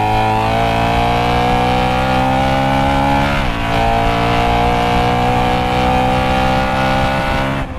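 BMW M3's V8 engine at full throttle, heard from inside the cabin, revs climbing steadily. About three and a half seconds in, a quick dual-clutch upshift from third to fourth drops the pitch, then the revs climb again toward about 7,500 rpm. The engine note falls away abruptly near the end as the throttle is lifted.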